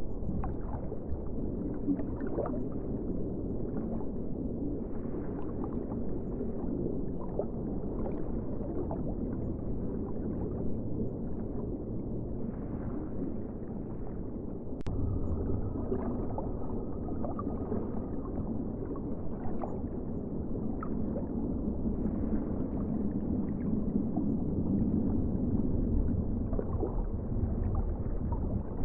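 Ocean water washing and gurgling: a steady low rush with many small splashes and bubbling sounds, and a single sharp click about halfway through.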